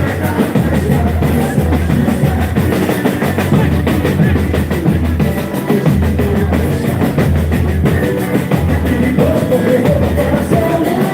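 Live boi-bumbá toada music dominated by drums: the percussion section beats a dense, steady rhythm over a continuous bass.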